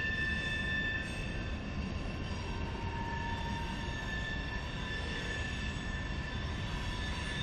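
CSX freight train of tank cars rolling past: a steady rumble of wheels on rail, with thin high-pitched wheel squeal held over it that shifts slightly in pitch partway through.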